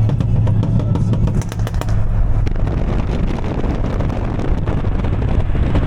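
A V8 engine under throttle, with a quick run of crackles in the first two seconds or so, then running steadily.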